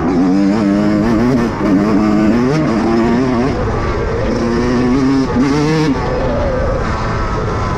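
Motocross dirt bike engine under way, its revs climbing and dropping again and again as the throttle is worked.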